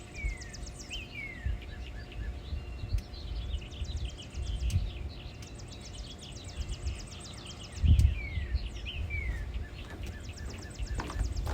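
Songbirds calling: short descending whistled notes repeated in pairs, with fast high trills, over low wind rumble on the microphone and a dull thump about eight seconds in.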